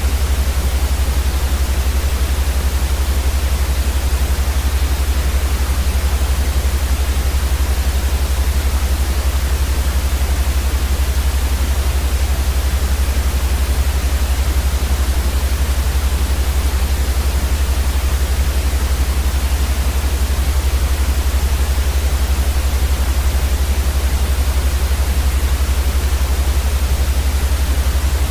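Steady, unchanging synthetic white noise, an even hiss spread across the whole range with a strong deep rumble underneath.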